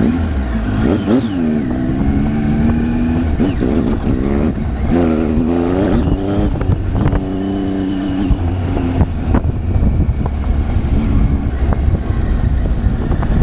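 Triumph Tiger 800's three-cylinder engine running under the rider, revving up and falling back several times as the throttle is opened and closed.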